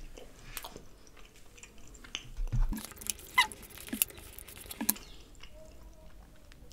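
Close-miked eating sounds of a soft, syrupy dessert (gulab jamun with rabri): quiet chewing and mouth smacks, with scattered small clicks and taps from a spoon and a paper dessert tub being handled, a few sharper ticks in the middle.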